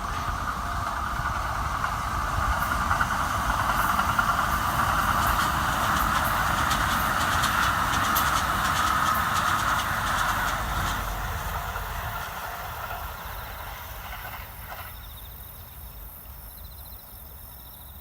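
Kintetsu limited express electric train passing over a level crossing, its wheels clicking over the rail joints. It builds to its loudest in the middle, then fades away. The crossing's warning bell cuts off about three-quarters of the way through, leaving insects chirping faintly.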